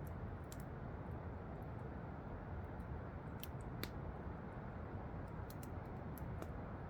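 Wood fire crackling, with a handful of sharp snaps and pops, the loudest just before four seconds in, over the steady rush of a waterfall.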